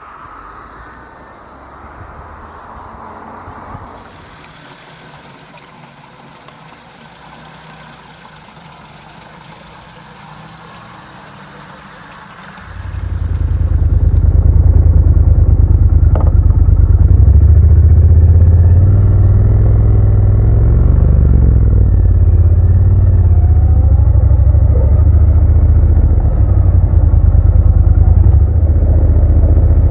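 Quiet background sound for the first part, then a sudden cut in to a motorcycle engine running loud and low, its pitch stepping up and down.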